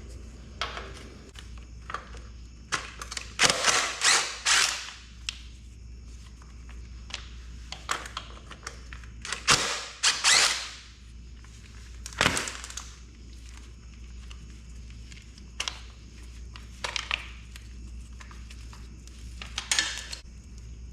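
Hand tools knocking and clanking on motorcycle frame metal while a part is being unbolted. A quick run of several knocks comes about three to four and a half seconds in, two more near ten seconds and one near twelve, with lighter taps later.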